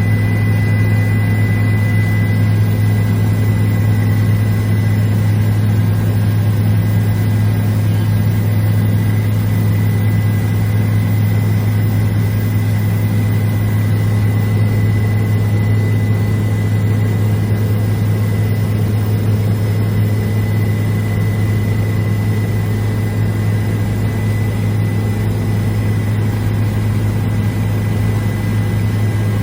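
Steady, loud drone of a helicopter's rotors and engine, heard from inside the cabin, with a thin high whine running over it.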